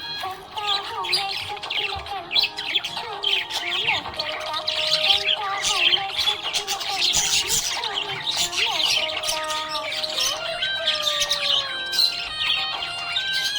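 Small pet parrots chirping and squawking continuously in rapid, overlapping calls, over background music.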